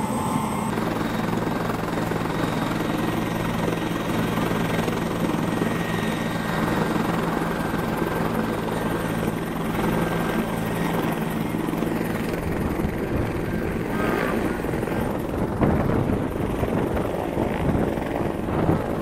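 Helicopter running close by with a steady rotor and engine hum. About twelve seconds in the even hum breaks up into rough, gusty noise, typical of the rotor's downwash blowing across the microphone.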